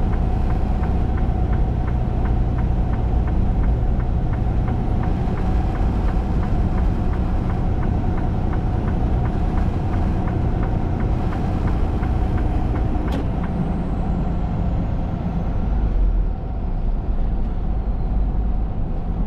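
A truck's engine and road noise heard from inside the cab, steady, as it climbs a mountain grade. A regular ticking runs along with it and stops about two-thirds of the way through.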